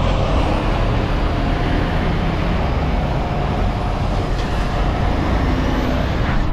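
Steady engine and road noise of a semi-truck under way, heard from inside the cab, with a deep, even rumble.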